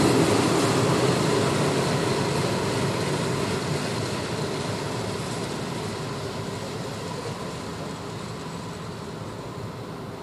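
Freight train of open coal wagons rolling past on the rails, a steady rumble that fades evenly as the tail of the train draws away.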